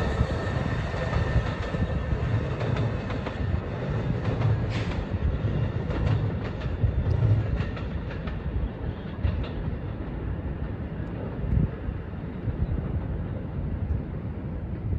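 Train running on the rails, a steady rumble with scattered clicks of wheels over rail joints, slowly fading as it pulls away.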